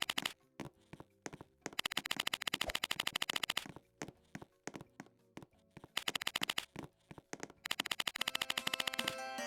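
Rapid runs of sharp clicks, many a second, coming in three bursts with scattered single clicks between them; music starts near the end.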